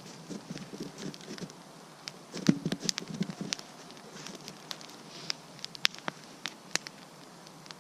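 Wood campfire crackling, with scattered sharp pops and snaps from the burning wood. Two short bursts of lower shuffling or rustling come in the first half.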